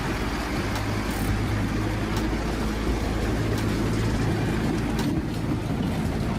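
Water tender (fire tanker truck) engine running steadily with a low hum, mixed with road and traffic noise.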